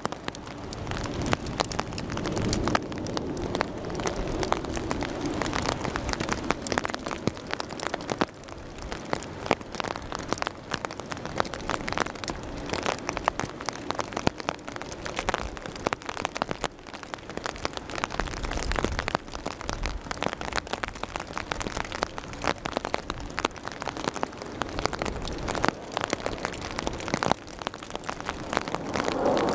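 Rain falling close to the microphone: a dense, irregular patter of raindrop ticks over a steady hiss of rain.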